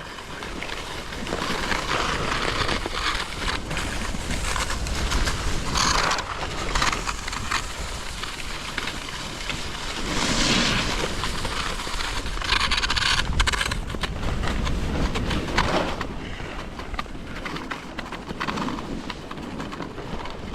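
Monoski sit-ski's ski hissing and scraping over snow, with wind noise on the microphone. Louder scrapes come about five times, as the ski edge bites into the snow.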